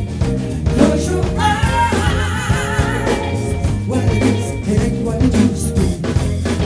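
Soul band playing live, with a steady drum beat under a sustained bass line.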